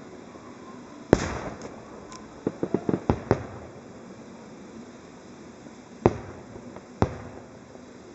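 Aerial firework shells bursting: a loud bang about a second in with a rumbling echo, a quick run of smaller pops a couple of seconds later, then two more single bangs near the end.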